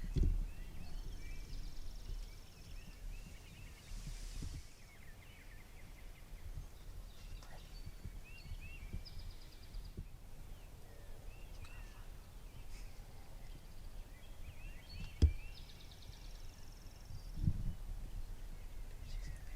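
Small birds chirping and trilling over a low rumble on the microphone, with one sharp click about fifteen seconds in.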